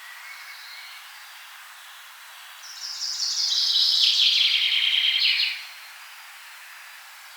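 A forest songbird sings one loud, rapid trilled phrase of about three seconds that steps down in pitch as it goes, over a faint steady background hiss, with a few faint, short calls around it.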